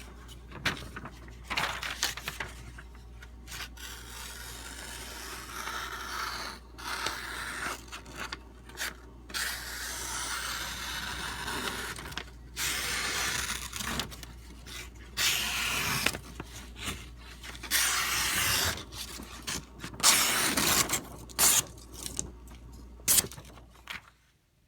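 A steel knife blade scraping in a series of strokes of a second or two each, with a few sharper, louder scrapes near the end.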